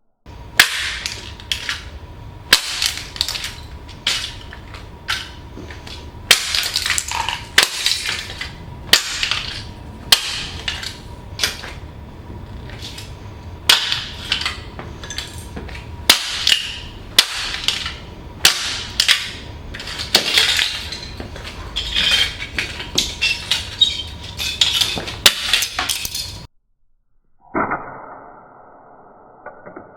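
Toy fire truck crushed under stomping riding boots: a run of sharp cracks and snaps of breaking plastic, irregular and sometimes several a second, over a faint steady tone. It stops suddenly near the end, giving way to a quieter, different sound.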